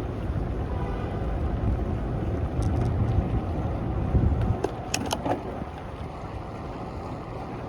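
Wind buffeting the microphone of a camera on a moving bicycle, a heavy low rumble over steady city street noise. The rumble eases about four and a half seconds in, and a few sharp clicks follow around the five-second mark.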